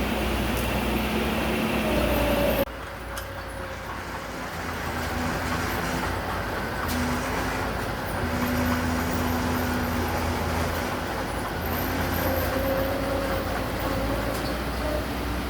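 Diesel engine of heavy construction machinery running steadily. About two and a half seconds in, the sound drops suddenly, then the engine carries on and slowly builds again.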